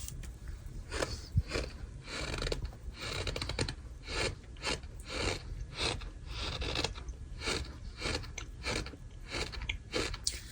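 Crunchy packed ASMR sand crumbling and crunching in a run of short crunches, about two a second, starting about a second in.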